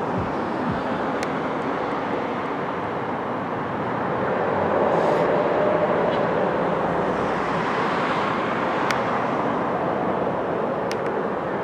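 Steady outdoor background noise, a broad hiss and rumble like wind or distant machinery and traffic. It swells a little about halfway through, and a few faint clicks sound over it.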